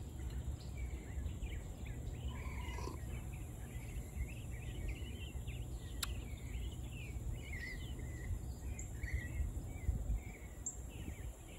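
Birds chirping and calling, many short overlapping calls, over a steady low background rumble.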